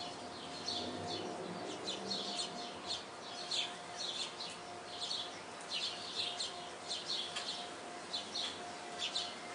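Small songbirds chirping: many short, high chirps in quick clusters, going on throughout, with a faint steady hum underneath.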